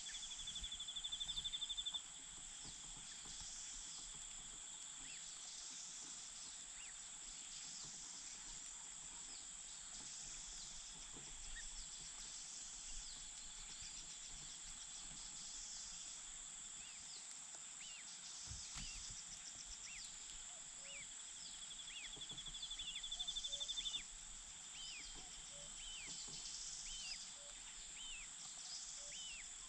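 Outdoor nature ambience: a steady high-pitched hum with a fast pulsing trill that swells for about two seconds at the start and again about 22 seconds in, and short falling chirps near the end.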